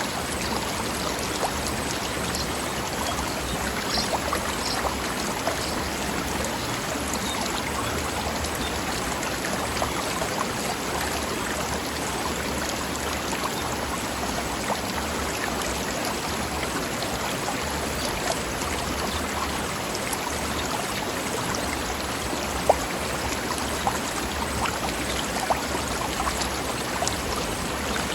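Forest river flowing over rocks: a steady babbling rush of water with small splashes and drips throughout, and one sharper splash about three-quarters of the way through.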